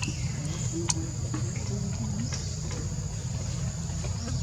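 Outdoor ambience: a steady high-pitched insect drone, like cicadas, over a low steady rumble, with a sharp click about a second in.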